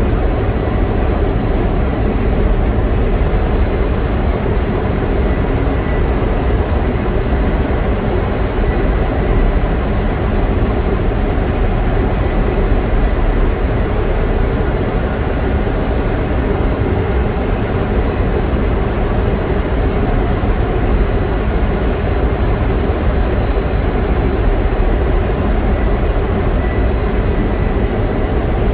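Loud, steady drone of running diesel generator machinery, with a few faint steady whines over it.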